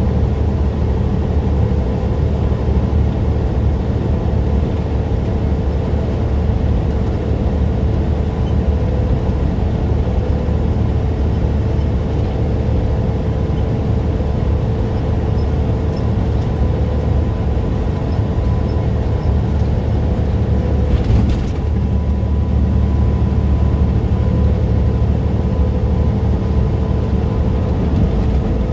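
Tractor-trailer engine and road noise while driving: a steady low rumble with a constant whine. A short hiss about three-quarters of the way through.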